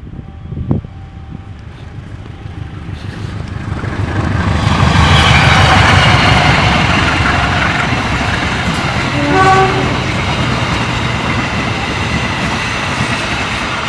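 Diesel-hauled passenger train passing close by: the locomotive's rumble builds to a loud peak, then the carriages clatter past steadily over the rails. A short horn toot sounds about nine and a half seconds in.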